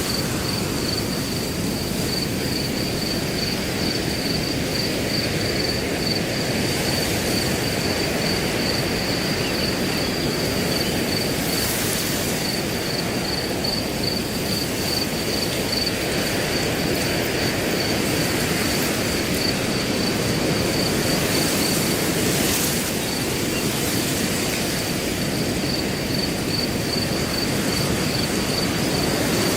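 Wind blowing steadily through grass, with a cricket chirping in a continuous rapid high trill throughout.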